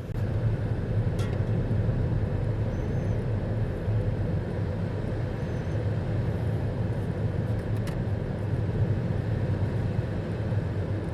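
Car driving along a road: a steady low engine and tyre rumble.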